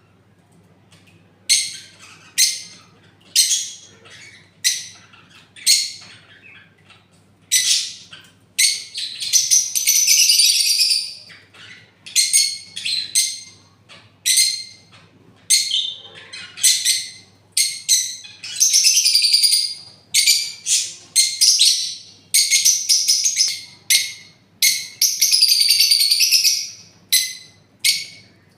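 Parrots calling: repeated short, shrill screeches about once a second, with a few longer drawn-out calls mixed in.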